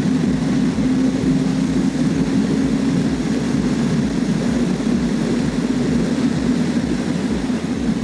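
KTM 390 Adventure's single-cylinder engine droning steadily at cruising speed on the road, its pitch sagging slightly about three seconds in, with wind buffeting the microphone in low rumbles.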